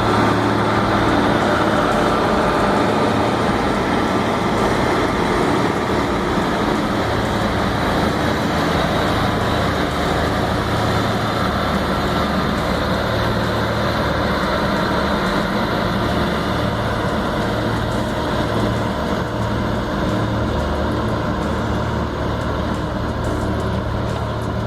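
Heavy vehicle engine running steadily with a constant low drone.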